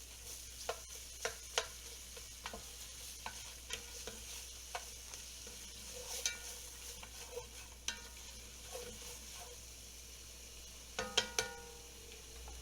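A utensil stirring and clinking against a metal cooking pot, scattered clicks with a short ringing after some of them, over a faint steady frying hiss. A quick run of ringing clinks comes near the end.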